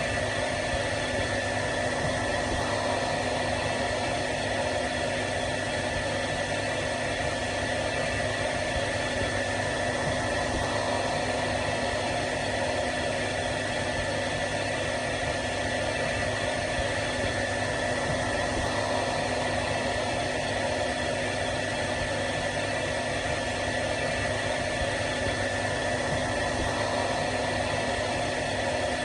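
Hair dryer running steadily: an even rush of air with a constant motor hum and whine, unchanging throughout.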